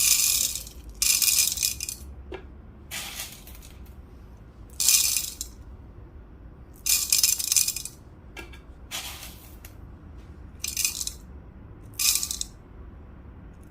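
Whole coffee beans poured in about eight short bursts, each a rattling cascade of hard beans lasting under a second, as 18 grams are dosed for a hand grinder.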